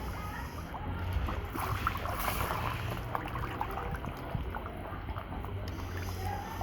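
Water splashing and trickling in a catfish tank, with a burst of louder splashing about two seconds in, over a steady low hum.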